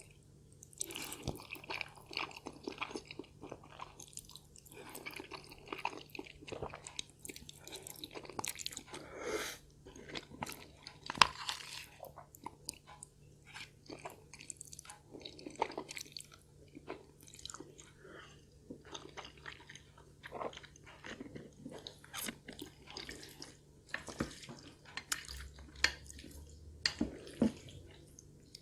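Close-miked eating: chewing and biting food, with irregular wet mouth sounds and scattered sharp clicks, one louder click about eleven seconds in.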